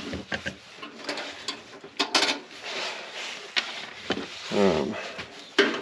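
Scattered metal clinks, knocks and scrapes as hand tools and furnace parts are handled, with a louder rough scrape about two seconds in.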